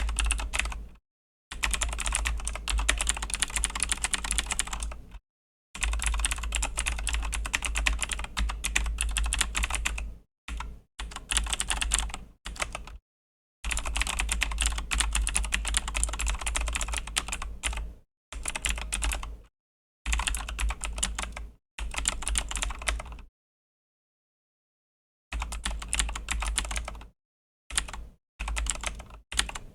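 Typing on a Razer BlackWidow V3 mechanical keyboard with Razer Green clicky switches: fast runs of key clicks broken by short pauses, the longest pause about two seconds near the end.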